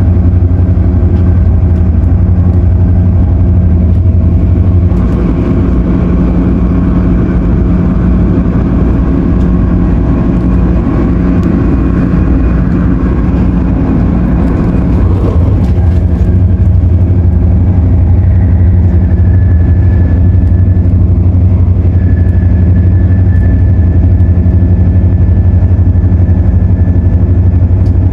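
Cabin noise inside an Airport Express CAF train running: a loud, steady low hum with several held tones, and noisy air-conditioning. The mix shifts for a few seconds near the middle, and a steady high tone comes in about two-thirds of the way through.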